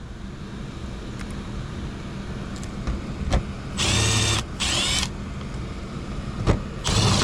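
Cordless driver spinning up in short runs to drive screws: two runs about four seconds in and another near the end, the motor pitch rising and falling each time.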